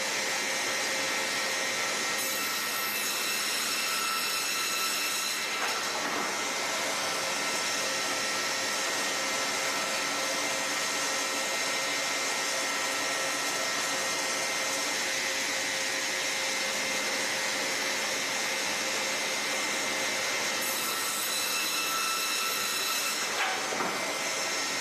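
Industrial sawmill saw running and cutting wood in a lab sawing test: a steady, loud whirring noise with thin high-pitched whining tones that strengthen a couple of seconds in and again near the end. The saw is wobbling because it is running at the wrong speed.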